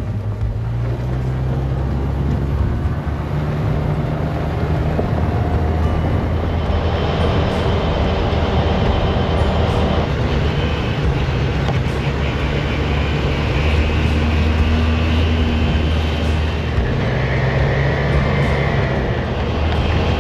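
Side-by-side UTV engine running under way, its note shifting up and down with throttle.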